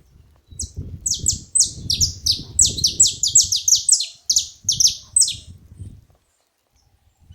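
Saffron finches calling: a rapid, overlapping run of sharp, falling notes, about four a second, lasting about five seconds and stopping abruptly. Low irregular rustling runs beneath it.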